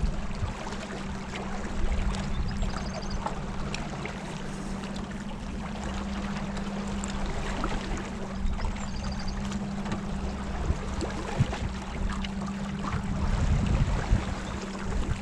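Water splashing and running along a small boat on the river, over a steady low motor hum.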